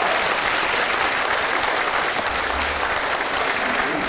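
Theatre audience applauding steadily after a choir song.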